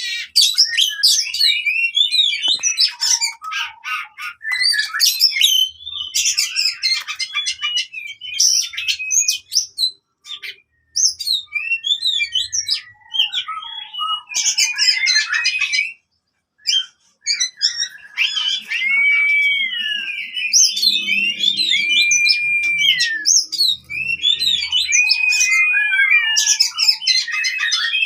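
An oriental magpie-robin (kacer) singing in aggressive 'fighting' mode: a loud, fast, varied run of chirps and trills, with long level whistles from about 18 s on. The song breaks briefly twice, around 10 s and 16 s.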